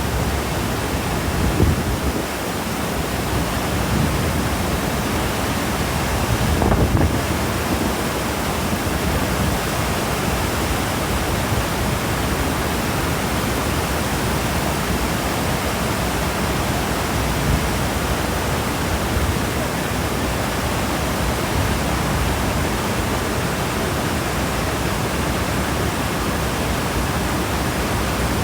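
Niagara Falls: the steady rush of the falling water.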